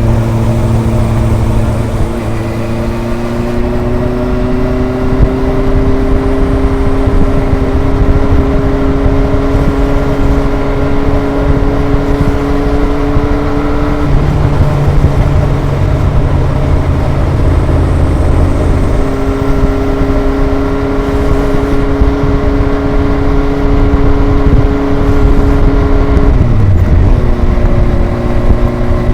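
Kawasaki ZRX inline four-cylinder motorcycle engine and exhaust under way at a gentle, steady throttle. The pitch climbs slowly, changes abruptly about halfway through, and falls as the revs drop near the end. Wind rumble on the microphone runs throughout.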